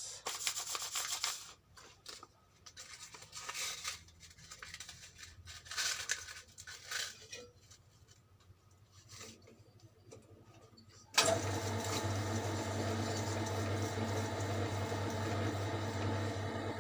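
Sandpaper rubbed in short, irregular strokes against a honed motorcycle cylinder block, polishing the bore to a shine. About eleven seconds in a small electric motor starts suddenly and runs steadily with a low hum.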